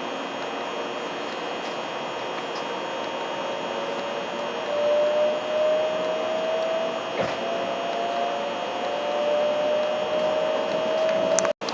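Running noise of a Hikari Rail Star Shinkansen (700 series) train, a steady rush with a motor whine that slowly rises in pitch as the train picks up speed.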